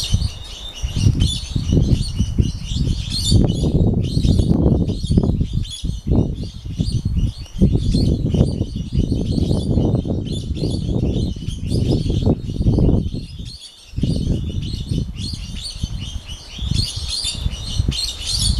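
Birds chirping with many short, high calls throughout, under a louder, gusting low rumble of wind buffeting the microphone that drops away briefly about two-thirds of the way in.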